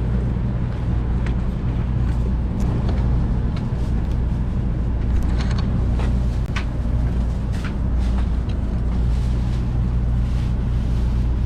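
Steady low rumble of a Shinkansen bullet train heard from inside the passenger car as it runs, with a few faint clicks.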